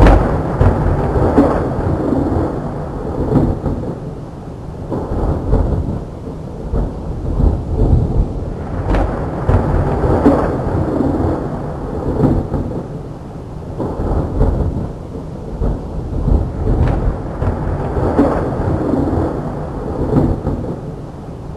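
Rainstorm with a loud low rumbling that swells and fades every second or two.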